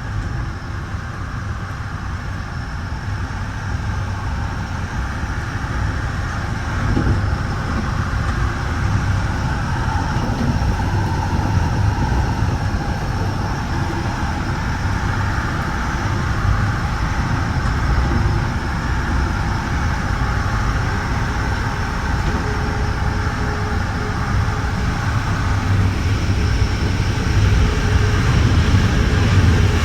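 Steady rumble and rail noise inside a Metra bi-level commuter cab car running along the track, slowly growing louder toward the end.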